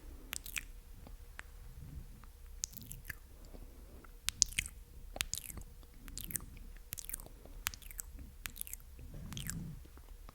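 Close-miked ASMR mouth sounds: wet, sticky clicks and pops of the lips and tongue, about a dozen at irregular intervals.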